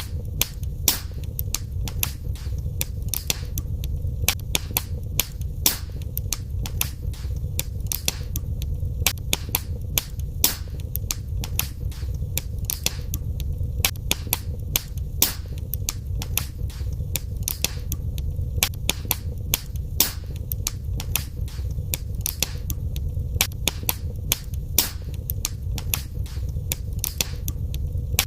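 Wood fire burning in a fireplace: sharp crackles and pops several times a second over a steady low rumble of the flames.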